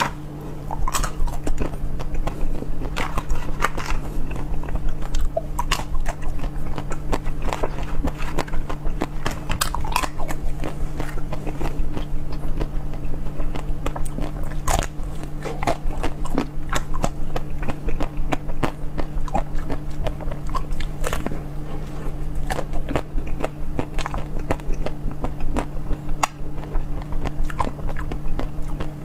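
Close-miked ASMR eating: a continual run of crisp bites, crunches and wet chewing clicks, over a steady low hum.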